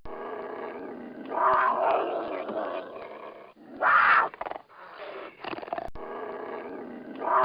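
An animal calling: a drawn-out call about a second in, a short loud call midway, and another drawn-out call starting near the end.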